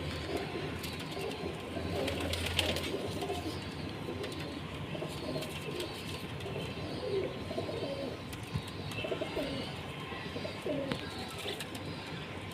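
Domestic pigeons (blue Kamagar) cooing, several low calls overlapping irregularly, with scattered light clicks.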